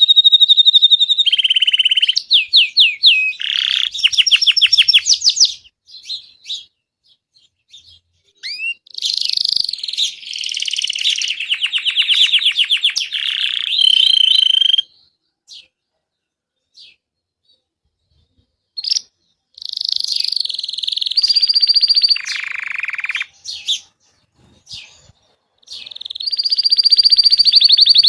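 Male domestic canary (Belgian canary) singing: phrases of rapid trills and rolled notes, broken twice by pauses of a few seconds.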